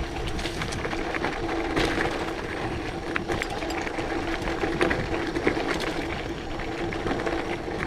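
Gravel bike rolling over rough gravel: a steady rapid mechanical buzz with scattered rattling clicks from the tyres and frame.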